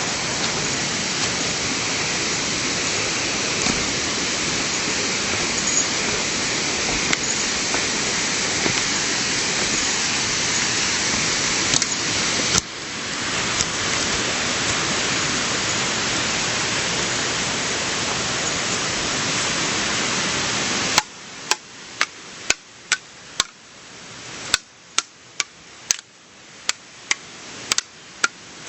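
Steady rushing of a stream's flowing water. About two-thirds of the way in it stops abruptly, leaving a quieter background with a series of sharp, irregular clicks or knocks, roughly two a second.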